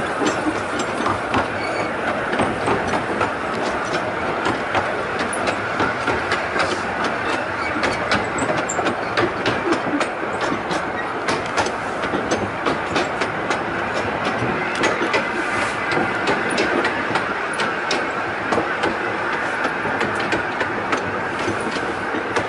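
12¼-inch gauge miniature railway train running along the track, heard from a carriage: a steady rumble of wheels with frequent, irregular clicks and knocks over the rails.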